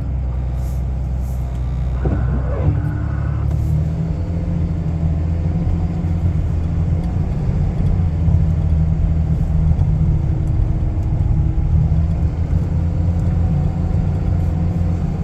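Vehicle engine running with a steady low rumble, heard from inside the cab.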